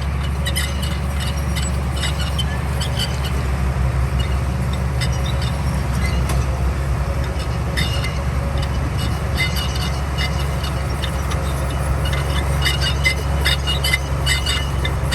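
Komatsu D41P bulldozer's diesel engine running steadily, with many short clicks and clanks over it that come thicker in the second half.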